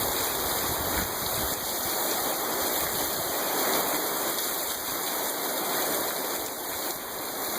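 Heavy rain pouring down, a steady dense hiss of falling and running water.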